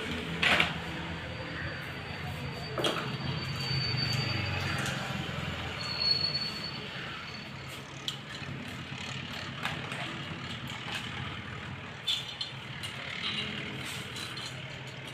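Scattered metallic clicks and knocks of hand tools and parts during motorcycle engine assembly, over a steady low hum, with a brief thin high squeak a few seconds in.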